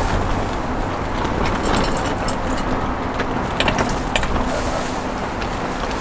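Strong wind rumbling on the microphone, with scattered light clicks of a utensil against a bowl as pancake batter is stirred, in two short clusters.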